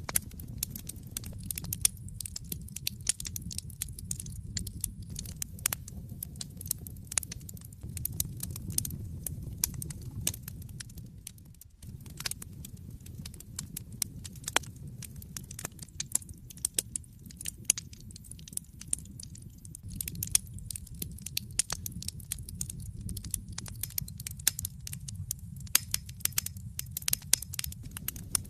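Wood fire in a fireplace crackling: dense, irregular pops and snaps over a steady low rumble of the flames.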